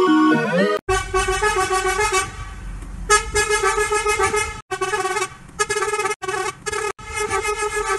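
A double-decker bus horn sound effect honking in long blasts, then in shorter, quicker blasts played at double speed from about five seconds in. Under a second in, a warped sound sliding in pitch cuts off just before the horn starts.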